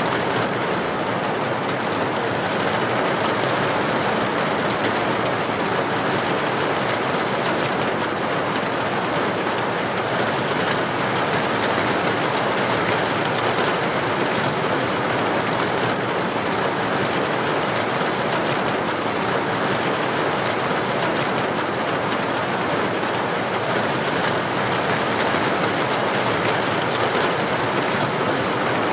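Heavy rain pouring steadily onto a street, a dense, even hiss of drops with no breaks or single strikes.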